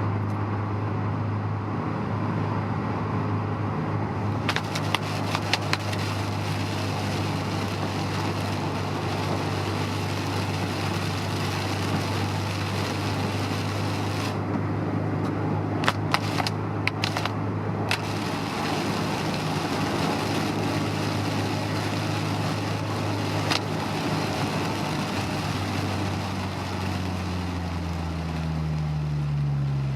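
Interior drive sound of a Honda S2000 at cruise: a steady four-cylinder engine drone under continuous tyre and road noise, with a few sharp clicks. Near the end the engine note changes pitch as the car speeds up or slows down.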